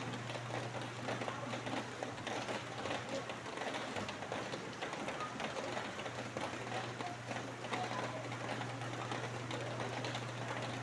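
Steady rain: a dense patter of drops. A low steady hum runs underneath and fades for a couple of seconds midway.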